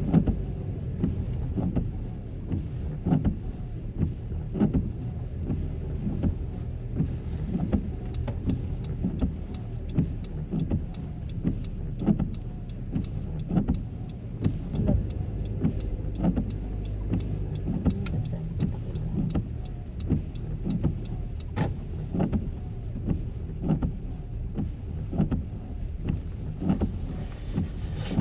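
Car moving on the road, heard from inside: a steady low rumble with frequent short knocks and bumps.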